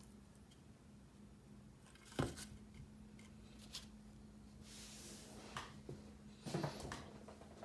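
Keyboard parts being handled on a desk: a sharp click about two seconds in, a brief rustle near the middle and a cluster of small clicks near the end, over a steady low hum.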